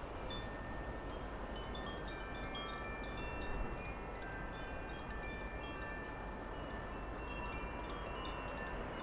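Wind chimes ringing, with many clear tones overlapping and fading, over a steady background hiss of outdoor air.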